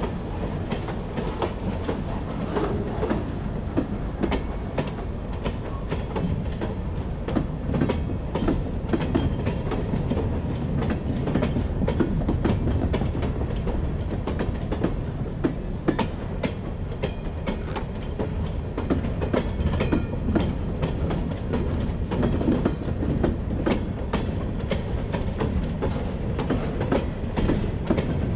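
Freight train's covered hopper cars rolling past close by: a steady rumble of steel wheels on rail with frequent clicks and clacks.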